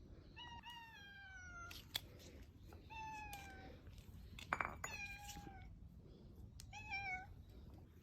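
A stray cat meowing four times. The first meow is long and falls in pitch, and the last is short. A few sharp clicks fall between the meows, the loudest about halfway through.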